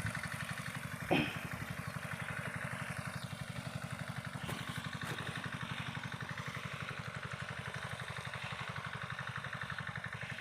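Diesel water pump engine running steadily with an even, rapid chugging beat, while pumping water for irrigation. A brief sharp knock cuts in about a second in.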